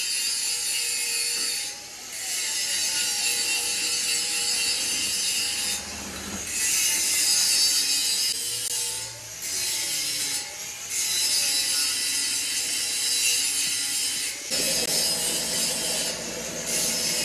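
Machine-shop metalworking noise: a steady high hiss of metal being cut or ground, broken by brief pauses every few seconds. More low rumble joins in near the end.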